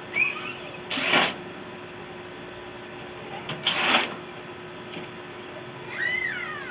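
Short bursts of a cordless power driver, twice about three seconds apart, the motor rising and falling in pitch each time, as screws come out of a microwave's casing. Birds chirp faintly between the bursts.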